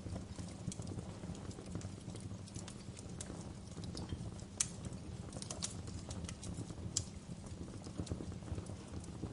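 Wood fire burning in a fireplace: irregular crackles and pops over a low, steady rumble of flames, with two sharper pops about halfway and two-thirds of the way through.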